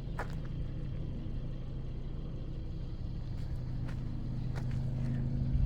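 A motor vehicle's engine running with a steady low hum that grows slightly louder toward the end, with a few faint clicks.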